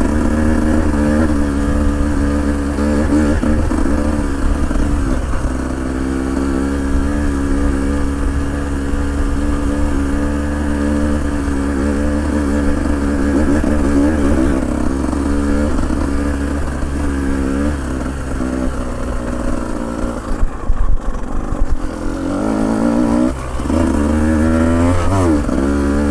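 A vehicle engine running at a fairly steady speed, its pitch rising and falling a little, over a low rumble, with a short clattery patch about three quarters of the way through.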